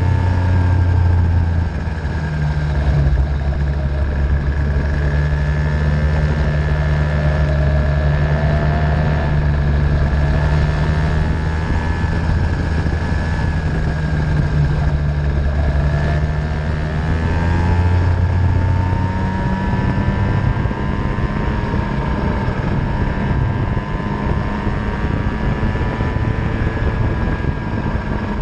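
50cc Venom racing engine running out on track, its pitch rising and falling with the revs, over a steady low engine drone.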